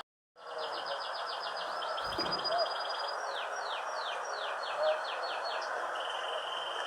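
A songbird singing: a fast trill of chirps, then a series of downward-slurred notes, then a held whistle near the end, over a steady hiss of background noise.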